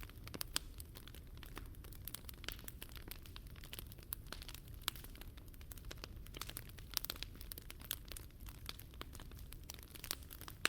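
Wood fire burning with dense, irregular crackles and sharp snaps, a few louder pops among them, over a low steady rumble.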